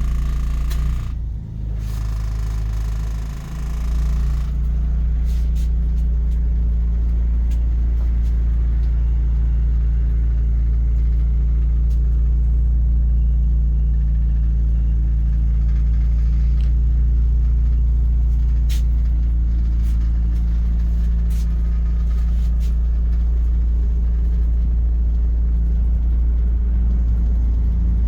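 2000 Chevrolet E450 truck's engine idling steadily with a deep, even rumble, dipping briefly twice in the first few seconds, with a few faint clicks over it.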